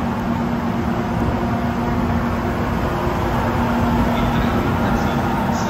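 Train noise: a steady rumble with a constant low hum, swelling slightly midway.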